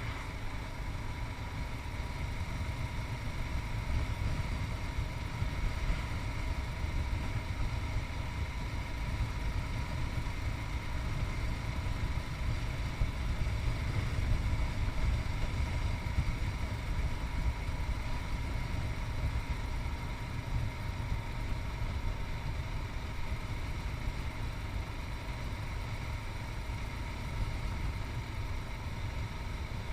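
Yamaha MT-03's 660cc single-cylinder engine running steadily, heard from a camera strapped to the rider's chest.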